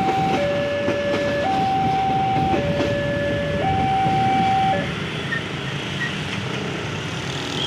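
Train noise: a steady rumble, with a two-tone warning signal alternating between a low and a high tone about once a second. The signal stops about five seconds in and the rumble eases.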